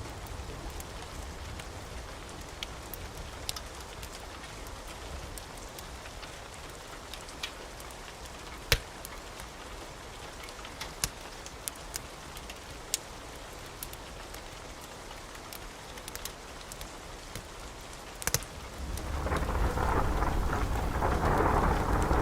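Steady rain with scattered sharp pops and clicks, then a rumble of thunder that swells up about nineteen seconds in and keeps rolling.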